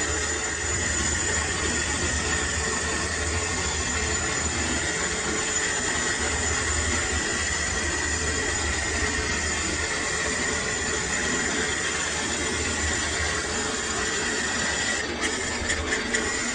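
Lathe running steadily: a low motor hum under a thin, steady high whine, with a few light ticks near the end.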